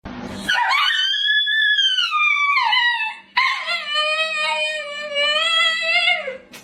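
A domestic animal howling in two long drawn-out calls. The first bends up and then slides down. The second is held at a steady pitch and drops away at the end.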